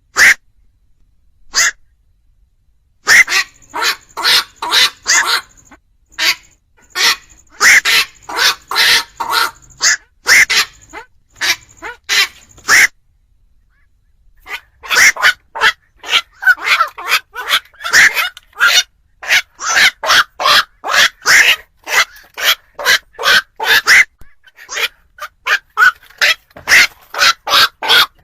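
Black-crowned night heron calls: short, harsh croaks repeated quickly, about three a second, in long runs broken by a brief pause about halfway.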